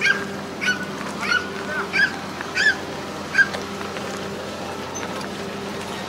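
A bird giving about seven short calls in quick succession over the first three and a half seconds, then falling silent. A steady low mechanical hum runs underneath.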